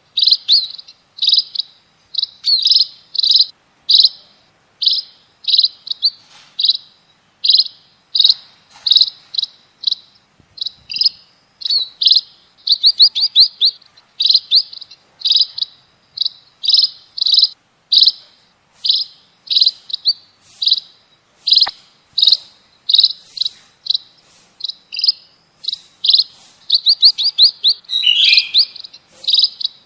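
Munia (emprit) calls played as a bird lure: short, high chirping bursts repeating about twice a second, each a quick run of notes. A faint, steady, high thin buzz runs behind them.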